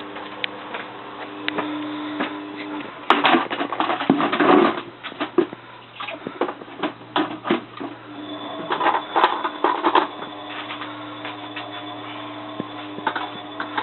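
Bosch WFF2000 washing machine running: a steady hum and motor whine, with clattering knocks about three seconds in and again around nine seconds.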